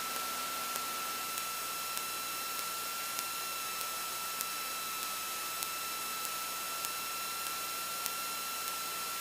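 Steady electrical hiss on an aircraft's intercom and radio feed, with a constant high-pitched whine and faint regular ticks a little under twice a second; the engine itself is not heard through the feed.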